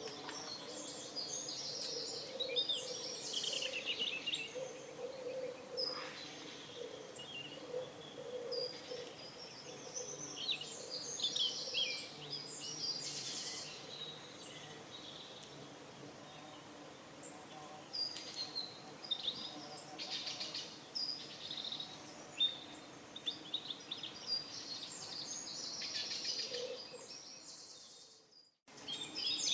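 Morning birdsong: many small birds chirping and trilling, over a low, steady cooing band that fits pigeons. The sound cuts out briefly near the end, then resumes.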